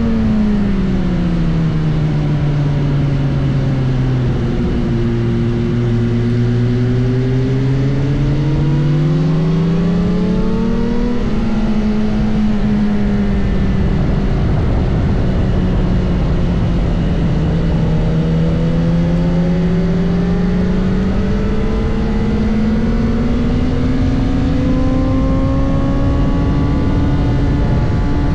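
BMW S1000RR inline-four engine running at speed under steady wind rush. The revs sink over the first few seconds, climb until about eleven seconds in, ease off, then climb again toward the end.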